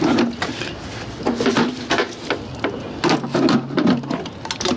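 A rapid run of clicks and knocks, like things being handled, with a short low hum from about three seconds in to about four seconds in.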